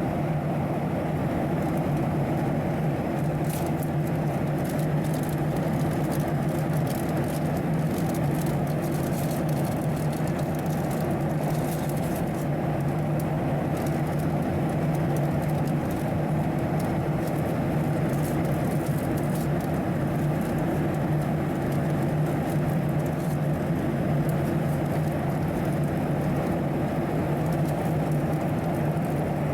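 Steady jet airliner cabin noise inside a Boeing 737-700: an even engine and airflow drone with a low hum, and faint high crackling ticks in the first half.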